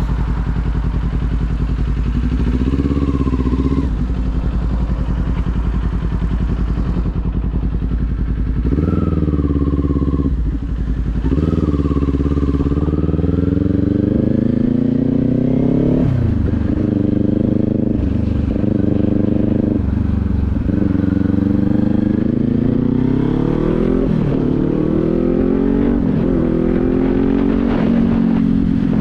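Kawasaki Z400's parallel-twin engine idling with one brief blip of the throttle, then pulling away and accelerating through several gear changes, the revs climbing and dropping back at each shift.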